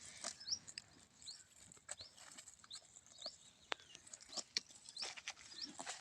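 Cow grazing: faint, irregular crunching and tearing as it crops and chews grass, with a few short, high, rising chirps.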